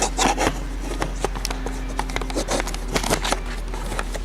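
Scattered light clicks and taps of objects being handled on a work surface, over a steady low electrical hum.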